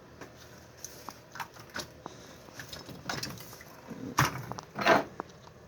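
Small metal tools clinking and clattering as someone rummages through them, with two louder knocks in the second half.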